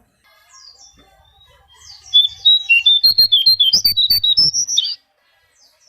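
Konin songbird singing: faint high chirps, then from about two seconds in a rapid, loud string of short high notes that stops near the end.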